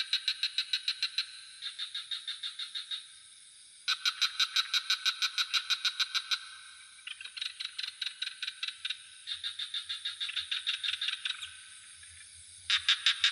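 Frogs calling in rapid rattling trains of about six clicks a second, bout after bout a few seconds long, some callers louder and some fainter, over a steady high-pitched drone of night insects.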